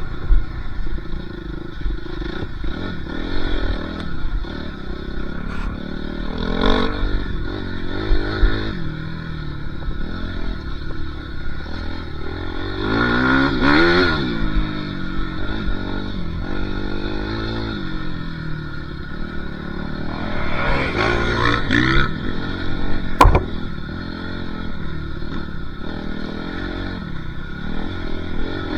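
Motocross dirt bike engine being ridden, its revs repeatedly rising and falling, with rattling and scraping. There is a sharp knock about two-thirds of the way through.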